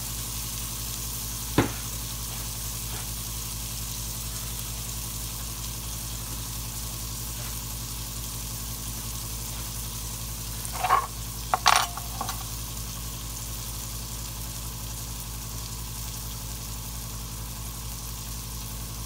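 Filet mignon steaks and mushrooms sizzling steadily in butter in a cast iron skillet just taken off the heat. A sharp click comes about a second and a half in, and a few short knocks come about two-thirds of the way through.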